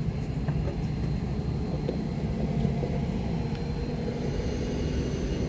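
A vehicle engine idling: a steady low rumble with a constant hum, with a few faint clicks over it.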